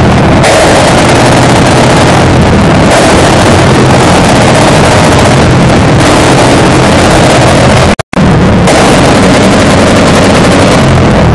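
A modified Royal Enfield Bullet's single-cylinder engine being revved hard through an open, free-flowing exhaust. It is loud and crackling, and the revs rise and fall every couple of seconds. The sound cuts out for a split second about eight seconds in.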